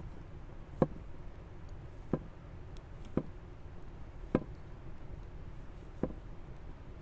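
Knife chopping on a cutting board: five separate sharp chops, each about a second or more apart.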